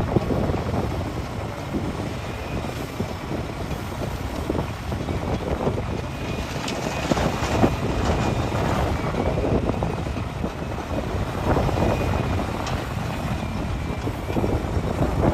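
Hitachi excavator working rock: its diesel engine runs steadily under load while rock clatters and scrapes in and against the bucket in irregular knocks.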